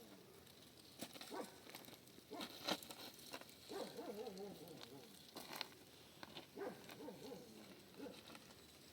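A dog whimpering faintly in short wavering whines, with a few scattered sharp clicks or taps.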